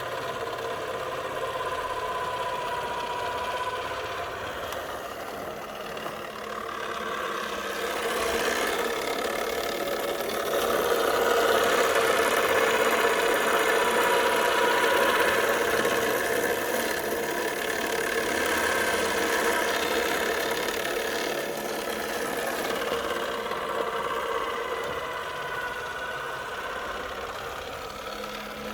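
Vintage 1960s PIKO toy washing machine running, its small motor giving a steady mechanical hum that grows louder through the middle stretch and eases off again.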